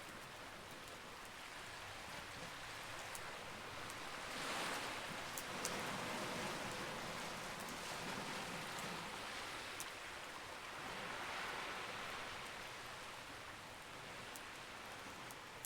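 Wood campfire crackling, with scattered sharp pops and snaps over a steady rushing wash of noise. The wash swells up twice, for a few seconds each time, like waves washing in.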